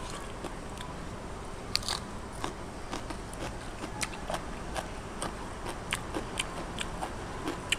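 A person chewing crisp food close to the microphone: irregular crunches and wet mouth clicks, the loudest crunch a little under two seconds in.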